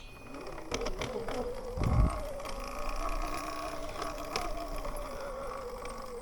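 Sur-Ron electric dirt bike's motor whining steadily as it rides slowly, its pitch wavering a little with the throttle. A brief low thump about two seconds in.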